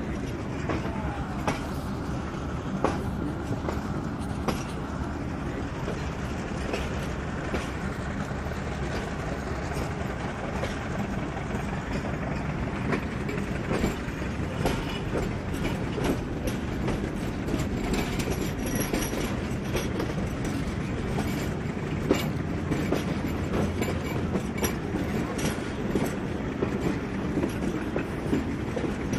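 Pakistan Railways passenger train running, heard from aboard a coach: a steady rumble with irregular clicks and knocks of the wheels over rail joints. The clicks come thicker in the second half.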